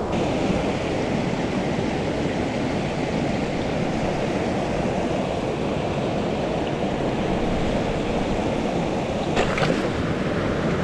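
Mountain stream water rushing as a steady, even noise, with a couple of short clicks near the end.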